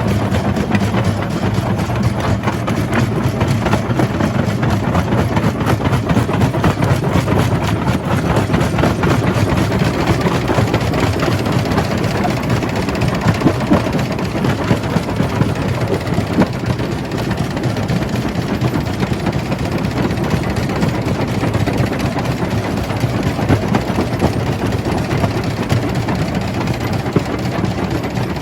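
Jaw crusher running and crushing rock: a steady low machine drone with a continual stream of small knocks and cracks from the stone breaking.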